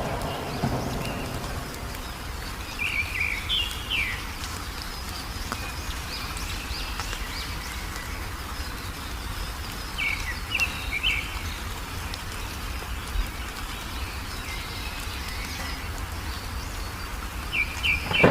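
Wild songbirds chirping in short, scattered phrases, about three bursts of calls, over a steady low background rumble.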